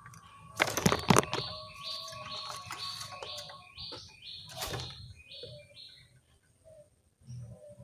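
Faint low cooing of ringneck doves (burung puter), joined by a quick run of about ten short, high chirping notes from a smaller bird. A few sharp clicks or knocks sound about a second in, the loudest thing here, and one more comes just before five seconds.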